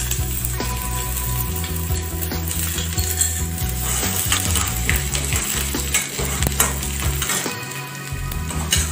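Chopped ginger and garlic sizzling in hot oil and ghee in a kadai, with mustard seeds, red chilli and curry leaves: the tempering for a dhal. A steel slotted ladle stirs and scrapes the pan, giving many short clicks over the steady sizzle.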